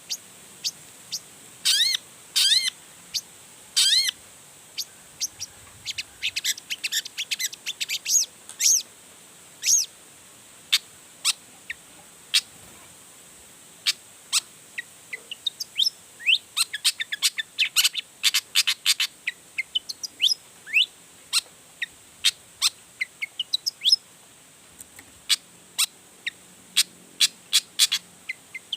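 Long-tailed shrike (cendet) in full song: a rapid, irregular string of short, sharp chirps and harsh notes, mixing in material copied from other birds. There are a few harsh, ringing calls in the first few seconds and a fast run of quick chirps around the middle.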